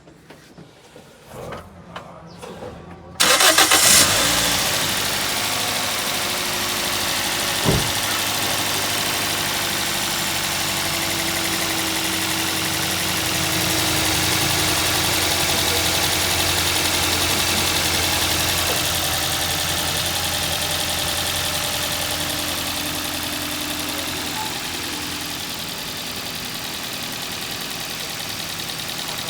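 Toyota GLi's engine starting about three seconds in, after a few light clicks, then idling steadily, run to check the sound after a tappet adjustment.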